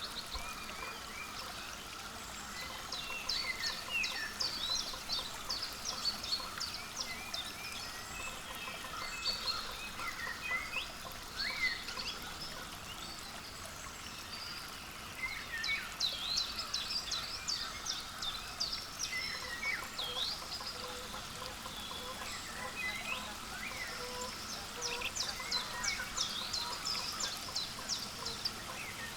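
Small wild songbirds chirping, many short high calls coming in flurries, over a steady background hiss.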